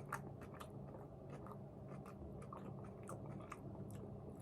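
A person chewing a mouthful of crunchy salad close to the microphone: faint, irregular crackles and clicks, over a steady low hum.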